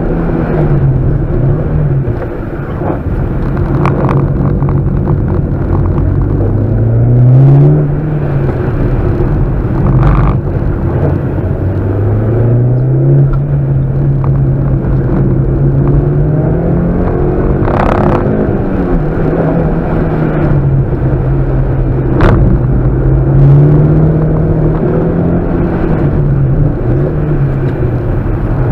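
Mitsubishi Lancer Evolution's turbocharged four-cylinder engine heard from inside the cabin under driving, its revs climbing and dropping several times. A few sharp knocks stand out over the engine.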